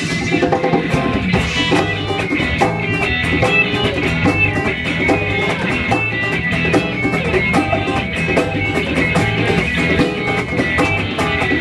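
Rock band playing an instrumental passage: guitar over a drum kit keeping a steady beat, with a bass line moving underneath.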